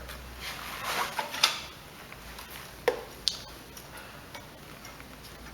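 Metal tools and engine parts being handled, with a few sharp clinks and knocks among some rustling.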